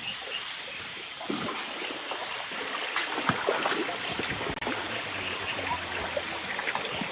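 Steady wash of water noise, with a few sharp knocks about three seconds in.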